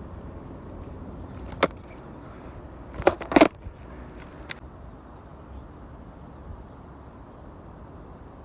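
Skateboard clacking: a sharp knock, then a loud double clack of the board hitting the ground a moment later, and a smaller tap, over a steady low rumble.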